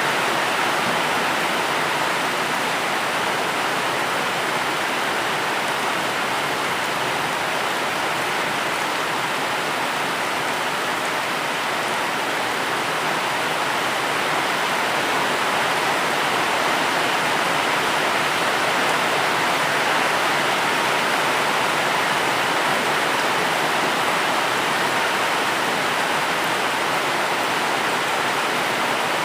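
Steady heavy rain, an even continuous hiss with no separate drops or thunder standing out.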